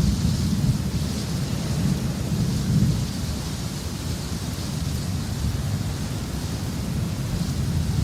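Steady rain falling through a thunderstorm, with low thunder rumbling under it that swells twice and fades.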